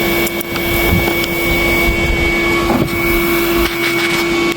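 Four-wheeler engine idling with a steady hum while the quad stands parked with its brake set.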